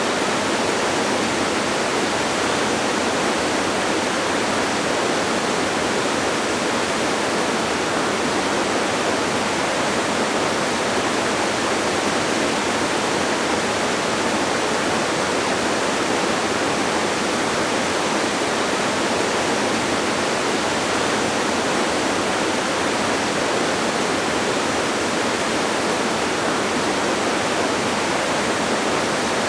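Distant waterfall: a steady, even rush of falling water that does not change.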